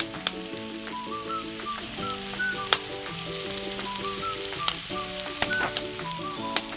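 Food sizzling in a hot pan, with several sharp clicks, over background music.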